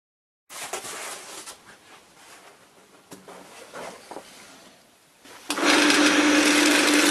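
Light rubbing and handling of wood, then about five and a half seconds in a power tool's motor comes on loud and runs steadily with a strong hum over a hiss.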